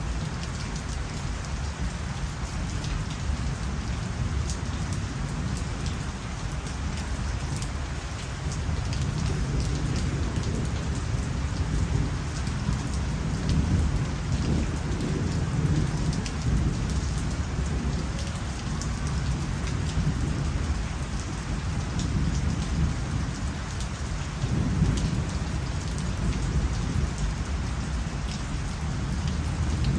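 Steady rain pattering on surfaces, with a low rumble swelling up about a third of the way in and again briefly later.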